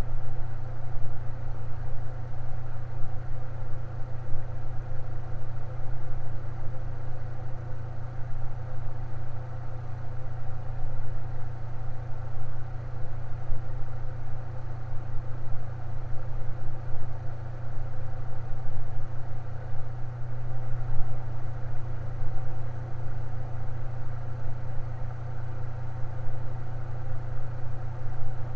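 Electric fan running steadily with a constant low hum.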